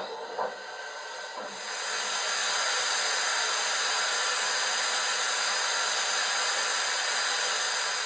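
Sound decoder of a Piko BR 50 garden-railway model steam locomotive playing a steam hiss through its speaker. After a couple of faint clicks, a steady hiss sets in about a second and a half in and holds.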